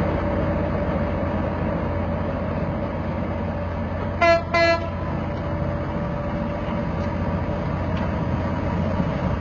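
A train running with a steady rumble, and two short blasts of a train horn about four seconds in.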